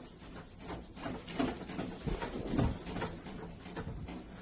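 Things rattling and knocking irregularly in a shaking room during an earthquake, with a low rumble swelling briefly about two seconds in.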